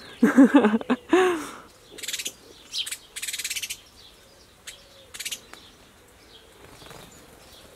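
Birds singing in short high-pitched bursts, with a fast trill about three seconds in. A short, loud, pitched vocal sound comes first, in the opening second and a half.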